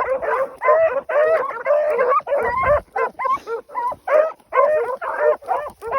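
A pack of beagles baying together as they run a track: a continuous stream of overlapping yelping bays from several hounds.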